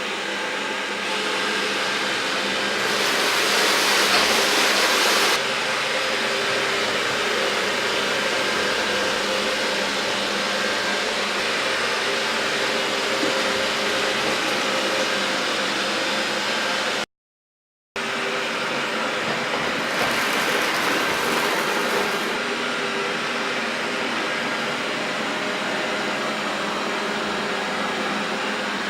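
Xiaomi Roborock robot vacuum running, a steady whirring hiss that swells twice in its higher hiss and breaks off for about a second partway through.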